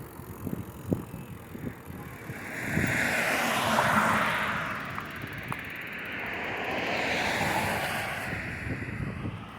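A vehicle passing by with a rising and fading rush of noise, peaking about four seconds in, followed by a second, softer pass.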